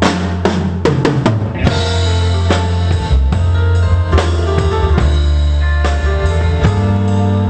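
Live pop band playing amplified: a quick run of drum hits opens, then the drum kit keeps a beat under sustained bass and other pitched instrument notes.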